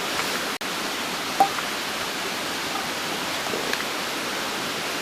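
Pork belly and cabbage hot pot simmering: a steady hiss with a few faint ticks.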